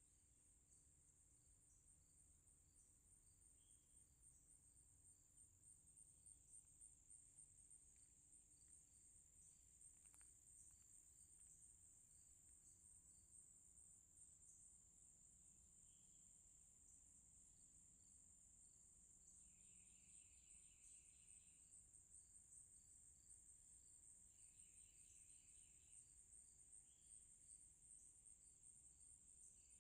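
Faint insect chorus: a steady, finely pulsing high trill, joined in the second half by short, pulsed buzzy calls about every five seconds.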